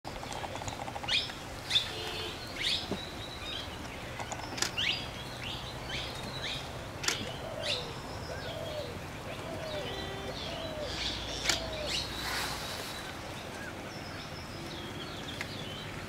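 Wild birds chirping: many short, sharp, falling chirps scattered through, with a few lower curved calls in the middle.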